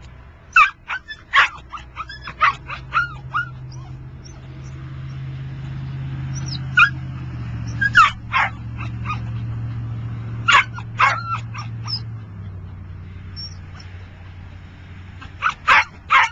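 A dog barking in four bursts of short, sharp, high-pitched barks and yips, with pauses of a few seconds between the bursts.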